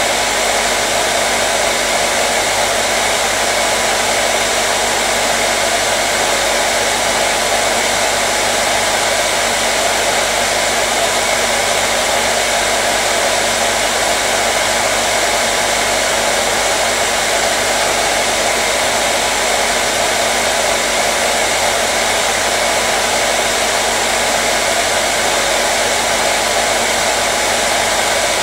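Hair dryer running continuously, a steady loud whooshing blow of air with a faint motor hum, unchanging in level.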